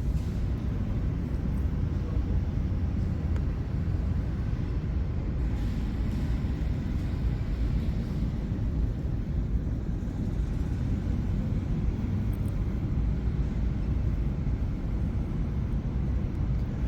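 Steady low rumble of a large exhibition hall's background noise, with no distinct events standing out.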